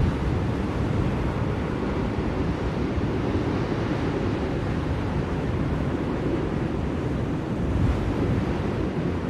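Steady blizzard wind, an even rushing noise heaviest in the low end, with no gusts or breaks.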